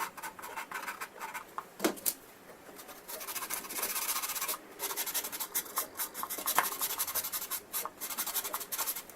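Abrasive rubbing down cured green putty on a plastic scale-model airframe: quick scratchy back-and-forth strokes, irregular at first, then a denser run of rapid rubbing from about three seconds in with a couple of brief pauses.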